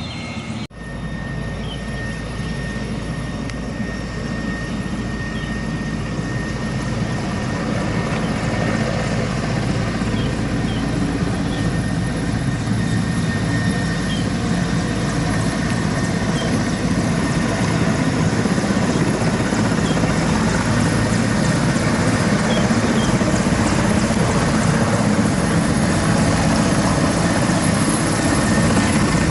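Agusta Westland AW119 helicopter running, its rotor and turbine giving a steady noise that grows gradually louder, after an abrupt break just under a second in.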